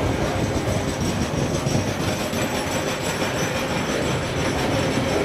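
Freight train's container wagons carrying waste containers rolling past, a steady noise of wheels on the rails.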